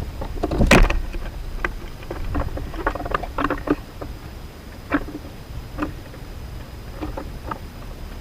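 Irregular sharp taps and knocks at an outdoor bird feeder, one louder knock just before a second in and clusters of quicker taps after it, the sort made by birds landing on and pecking at the feeder and seed. Low wind rumble on the microphone underneath.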